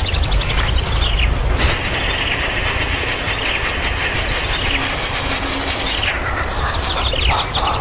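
Young birds in a nest squealing and chattering in quick, repeated begging calls, thickest from about two to six seconds in. There is one sharp knock about a second and a half in, and a steady high pulsing tone and a low rumble sit underneath.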